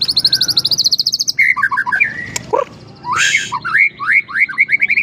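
A murai songbird singing in an agitated, worked-up state: a fast high trill, then chattering notes, then a run of rising whistled notes that come faster near the end.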